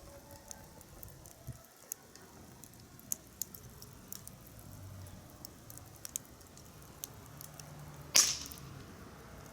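Wood fire crackling, with scattered sharp pops and one much louder crack about eight seconds in.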